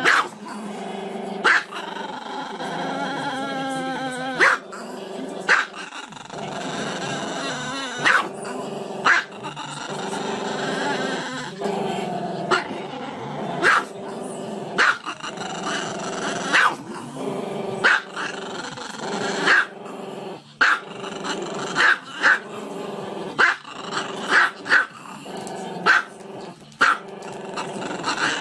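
Small black-and-tan dog growling and grumbling continuously, broken by sharp barks every second or so.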